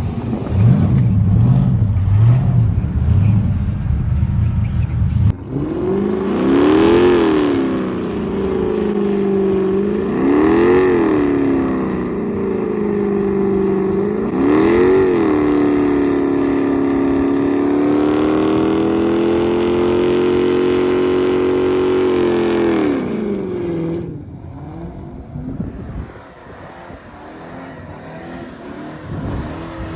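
A car engine revved hard. After a low rumble it climbs and falls three times, then is held high for several seconds before dropping away about four-fifths of the way through.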